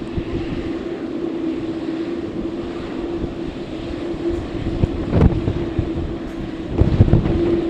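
Strong wind buffeting the microphone in low rumbling gusts, loudest about five and seven seconds in. A steady droning tone runs underneath.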